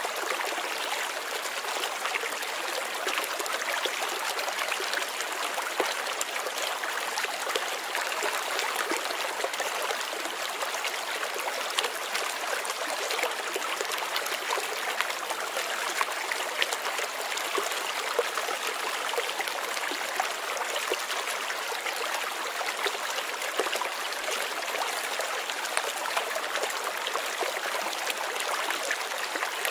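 Water of a small stream running and trickling steadily, with a continuous rush of many small splashes.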